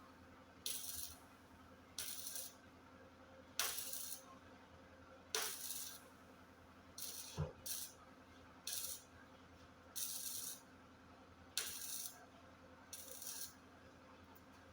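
Welder laying a series of short tack or stitch welds: about ten brief crackling hisses, each about half a second long and spaced one to one and a half seconds apart, over a steady low hum.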